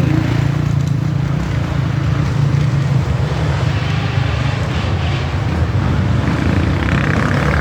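Dirt bike engines running: a steady low drone.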